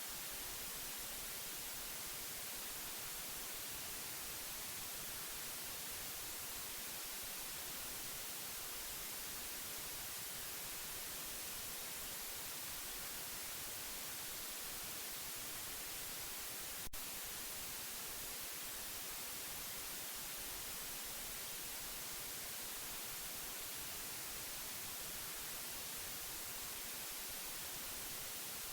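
Steady white noise: an even, unchanging hiss weighted toward the high end, with a single brief click about seventeen seconds in.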